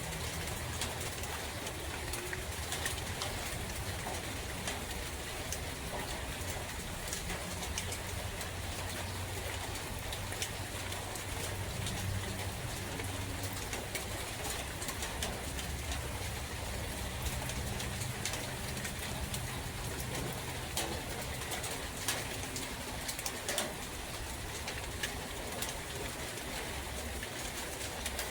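Steady rain falling in a forest, with many separate drops ticking close by. A dove coos low now and then through the rain.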